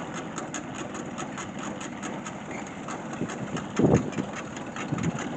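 Old tractor engine running at idle with an even firing beat, belted to a corn feed grinder. A short, louder thump about four seconds in.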